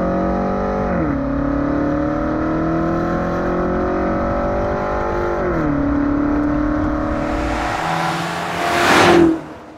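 BMW M8 Competition's twin-turbo V8 running under way, heard up close at the exhaust, its pitch dropping sharply twice as it shifts up a gear, about a second in and again after five seconds. Near the end the car sweeps past, swelling loudest and then fading quickly.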